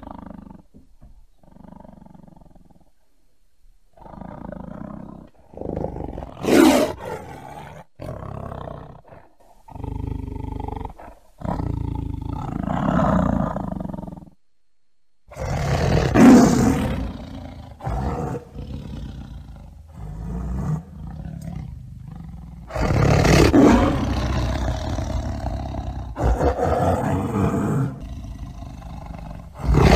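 Tiger roaring in a series of calls with short pauses between them, the loudest about six seconds in, about sixteen seconds in, and from about twenty-three seconds on.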